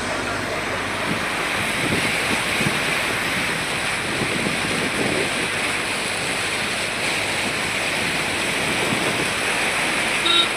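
Floodwater rushing, a steady noisy wash, with a brief high tone near the end.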